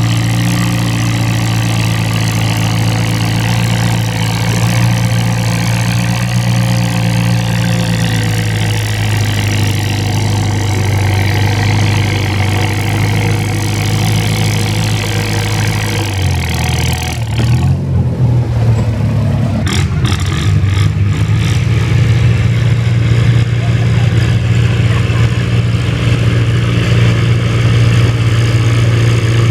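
Antique tractor engine running steadily and loudly. Its note changes about 17 seconds in, then it carries on a little louder.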